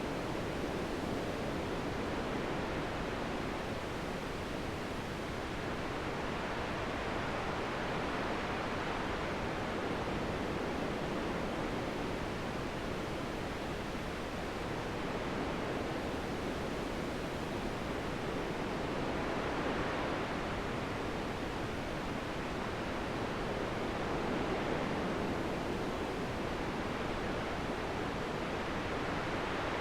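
Wind blowing in a steady rush that slowly swells and eases every several seconds.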